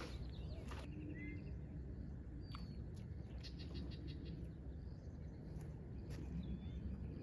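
Outdoor night ambience: a few short, high animal chirps scattered through the seconds and a brief run of rapid clicks near the middle, over a steady low rumble.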